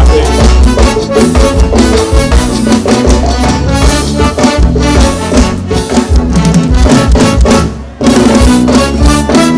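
Forró band music with no singing: drum kit and brass playing over a steady beat. The music drops away briefly about eight seconds in, then comes straight back in.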